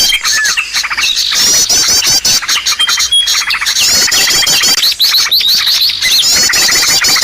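Bird-lure recording of several small birds calling at once: rapid runs of high hooked chirps, a held thin whistle and fast trills overlapping in a dense chorus, the same phrases coming round again every few seconds.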